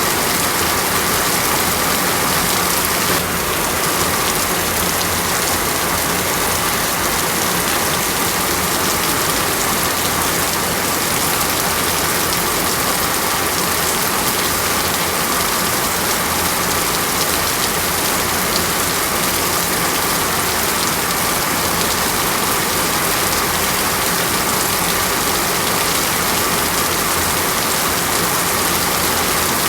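Heavy rainforest rain falling steadily, a dense even hiss of drops with no break.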